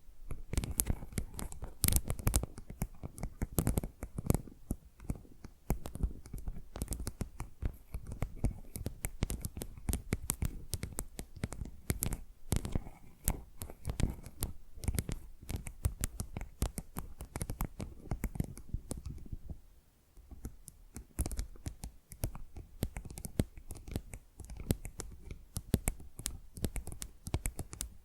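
Fingernails scratching and tapping fast on a tile, close to the microphone: a dense run of sharp clicks and scratches, with a brief pause about twenty seconds in.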